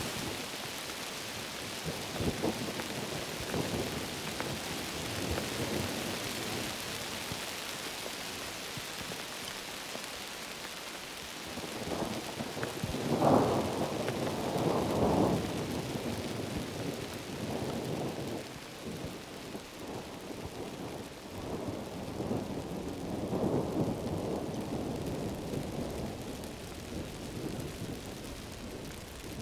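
Heavy tropical rain falling steadily, with thunder rumbling in several rolls. The loudest roll comes about halfway through.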